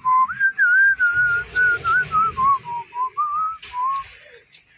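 A person whistling a short wavering tune, a single clear tone stepping and gliding between notes for about four seconds before stopping.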